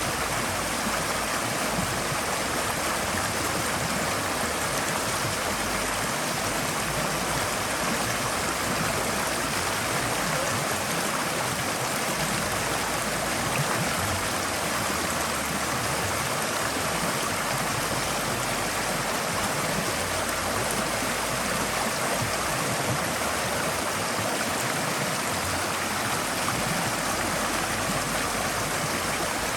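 Forest stream flowing, a steady rushing of water over rocks with no breaks or changes.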